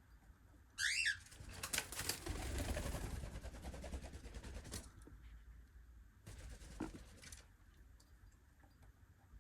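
Pet cockatiel giving one short, loud call about a second in, followed by a few seconds of rustling noise and another shorter rustle later.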